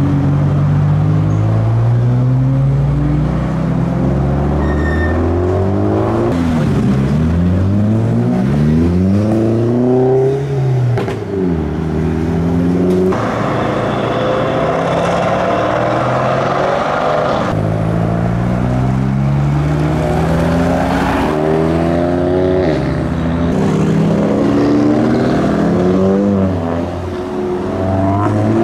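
Several modified cars accelerate away one after another. Their engines rev up in pitch, drop back at gear changes and climb again, many times over, as each car pulls off and passes.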